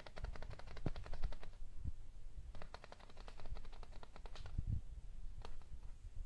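Cat chattering at a mosquito it is watching: two runs of rapid, sharp clicking, about a dozen clicks a second, each lasting a second or two, then a single click near the end.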